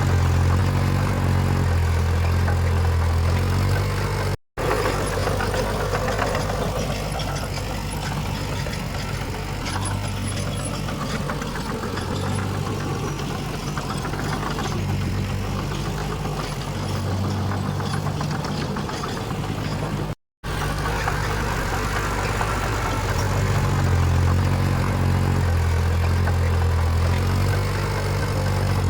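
Heavy diesel earthmoving machinery running, a low engine hum that swells and eases in strength. The sound cuts out for a split second twice.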